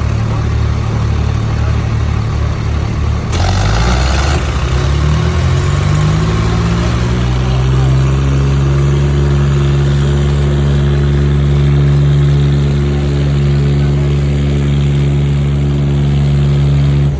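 Diesel tractor engines straining under load in a tractor tug-of-war. At first there is a rough, pulsing low rumble. About three seconds in comes a short burst of noise, and then the engine note climbs over a few seconds and holds at high revs.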